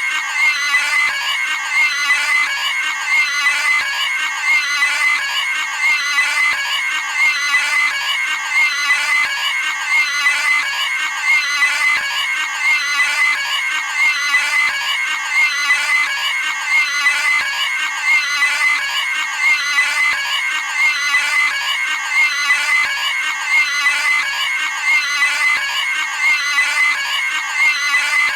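A cartoon pig's high-pitched scream sound effect, played on a loop so that it repeats over and over, roughly every second and a half.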